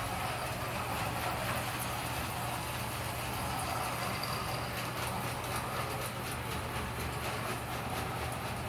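Train moving past: a steady rumble with a constant low hum, and faint regular clicks in the second half.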